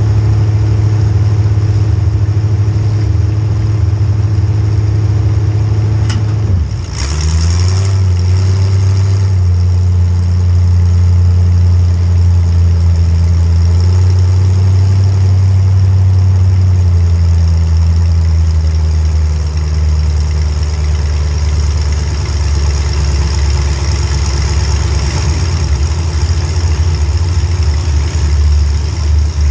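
Demolition derby car's small-block Chevy V8 running at a steady, loud pitch, with one sharp knock about six seconds in, after which the engine note dips and then picks up again.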